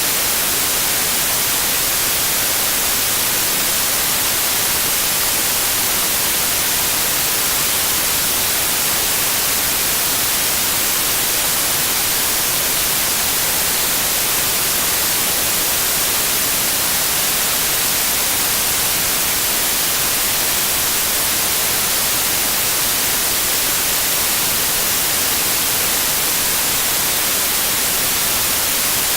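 Steady, unbroken white noise: an even hiss, brightest in the treble.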